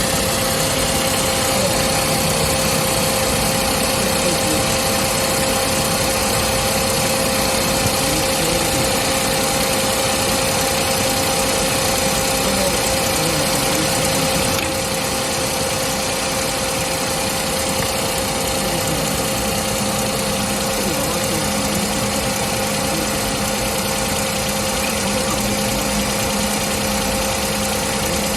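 Car engine idling with the air conditioning switched on, a steady tone running over the engine noise. The overall level drops slightly about halfway through.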